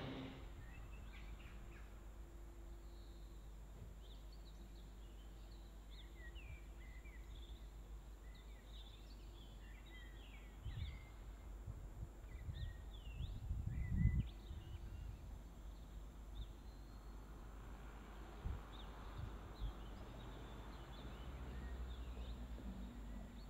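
Small birds chirping and twittering, faint and busiest in the first fifteen seconds, with a few low thumps.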